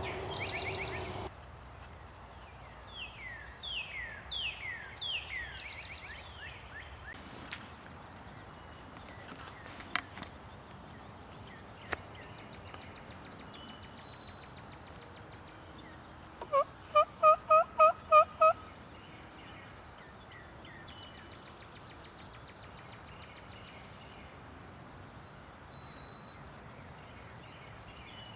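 Wild turkey gobbling a few seconds in. Then comes a quick run of about eight loud, evenly spaced turkey yelps, the loudest sound, with two sharp clicks before it and faint songbird chirps behind.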